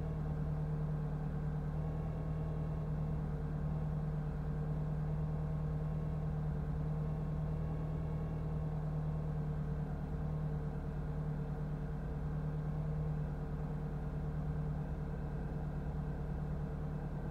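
1990 Eagle Talon TSi's turbocharged 2.0-litre inline-four idling steadily after a cold start.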